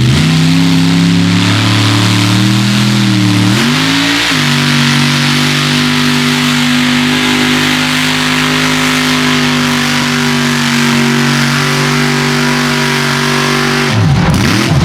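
Mega truck engine at full throttle pulling a sled: the revs climb over the first few seconds, jump up about four seconds in, then hold steady at a high pitch until the sound breaks off near the end.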